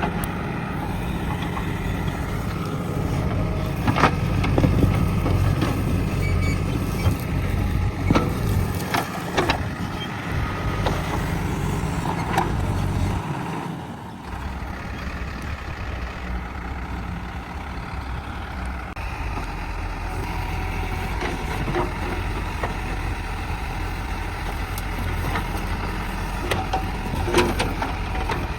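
JCB backhoe loader's diesel engine working steadily, easing off a little about halfway through, with a few sharp knocks and cracks scattered through it.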